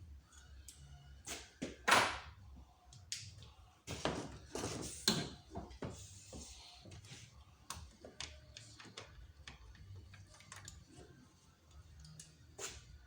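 Irregular knocks, clicks and clinks of hand tools and engine parts being handled during engine disassembly, with one louder knock about two seconds in and a cluster of knocks a couple of seconds later.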